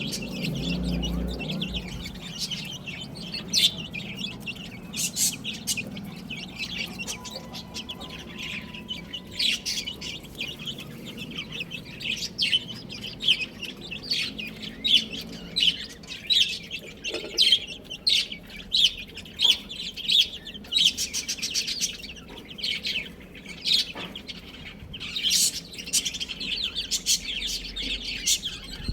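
Baby chicks peeping, many short high chirps overlapping in quick succession.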